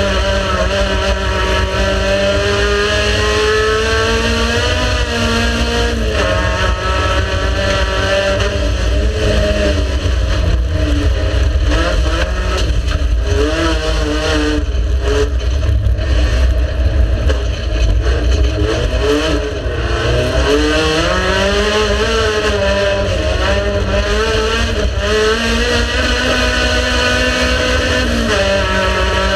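Race car engine running hard, its pitch climbing through the revs, dropping sharply at gear changes and falling away when the driver lifts, then rising again, over a heavy low rumble.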